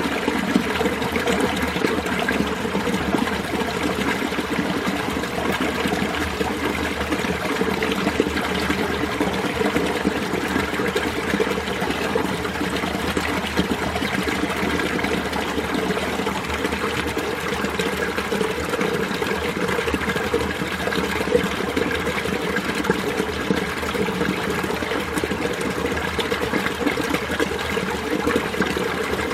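Winter mountain stream flowing over rocks among ice, a steady trickling and splashing that does not change.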